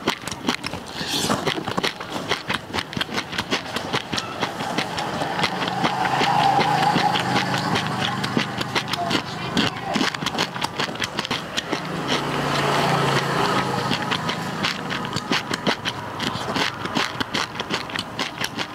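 Close crunching and chewing of crispy deep-fried fish, a dense run of small crackling clicks. A steady low hum swells in twice under it, about a third of the way in and again past the middle.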